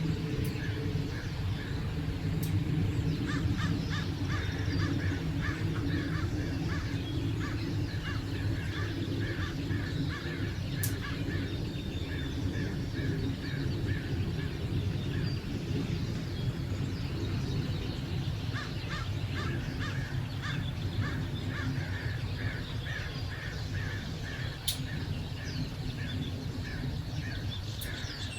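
Birds calling, one giving long runs of short calls repeated several times a second, over a steady low rumble.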